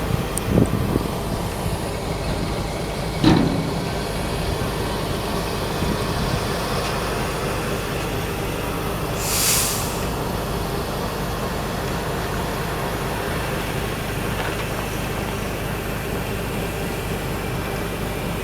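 Crane engine running steadily while lifting a boat out of the water, with a sharp knock about three seconds in and a brief hiss of air near the middle.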